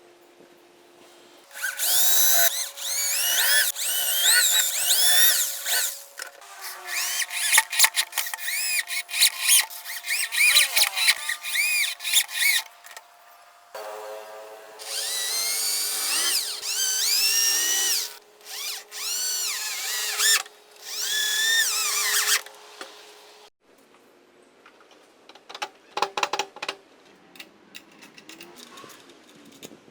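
Electric power drill running on wood in three long runs, with quick stop-start trigger bursts in the middle run and a few short bursts near the end.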